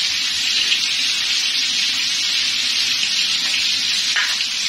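Chicken steaks sizzling steadily as they fry in butter and oil in a frying pan on a medium-low flame.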